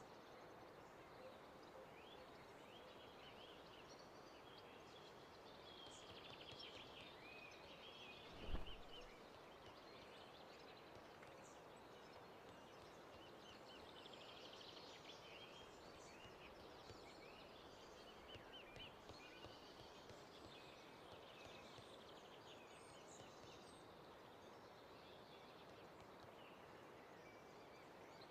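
Quiet background ambience with faint bird calls and trills scattered throughout, and a single low thump about eight and a half seconds in.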